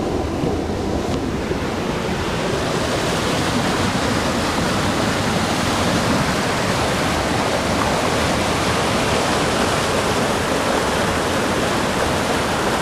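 River water rushing steadily through rapids in a small rocky canyon, the rush growing fuller and brighter about two seconds in.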